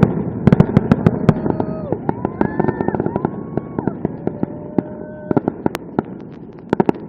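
Fireworks display: rapid crackling pops and bangs from bursting shells, thick at the start and thinning out toward the end.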